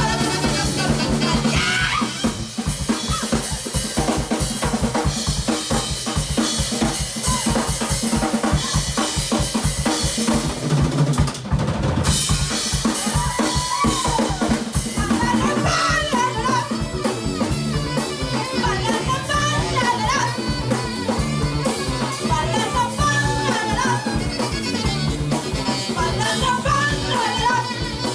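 Live rock band playing an instrumental passage with the drum kit to the fore: snare and rimshot hits over a steady bass drum beat, with a drum roll. About halfway through a melodic lead line comes in over the drums.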